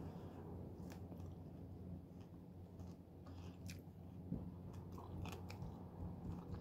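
A person chewing juicy fruit close to the microphone: scattered wet mouth clicks and small crunches, over a steady low hum.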